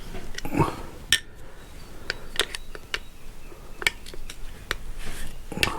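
Hand tools and small steel screws clicking and clinking as the screws are taken out of a Benelli engine's clutch cover: a dozen or so sharp metallic ticks at uneven intervals.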